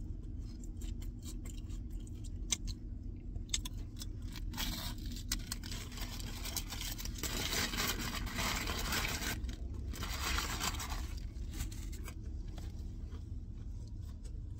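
A person chewing a crispy, very well-done grilled cheese sandwich close to the microphone: crunching and small wet mouth clicks, with louder crunchy stretches in the middle.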